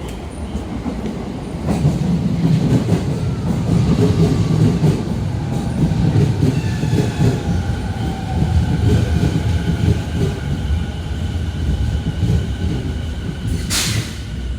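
A 15-car Sobu Rapid Line electric train pulling into the platform: a heavy rumble of wheels on the rails, with a motor whine gliding down in pitch as it brakes. A short burst of air hiss comes near the end as it stops.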